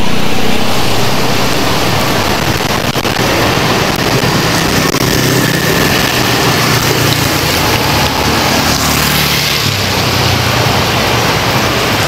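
Steady hiss of rain and wet-road noise, with motorbike engines passing.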